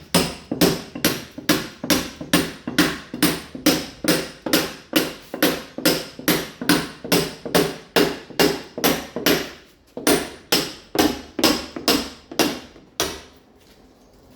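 Mason's hammer blows chipping a masonry wall, roughening it to take ceramic tile: sharp strikes at about three a second, with a brief break about ten seconds in, and stopping shortly before the end.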